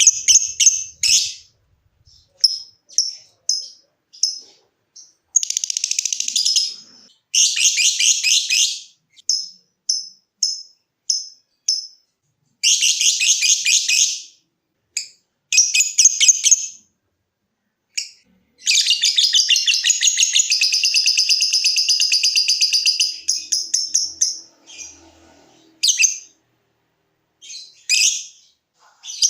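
Lovebird calling: short, sharp, high chips repeated about once a second, broken up by rapid chattering trills of one to two seconds (the 'ngekek'), with one long chattering trill of about five seconds past the middle.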